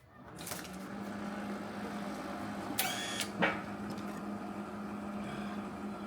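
Welding machine switching on and humming steadily, power back after the tripped breaker. A short squeal about three seconds in and a click just after.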